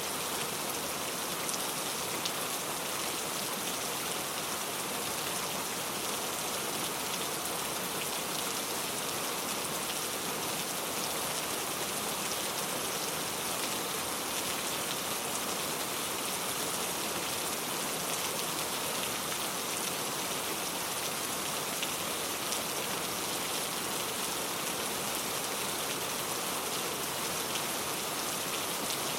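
Steady rain falling, a dense even patter with fine scattered drop ticks.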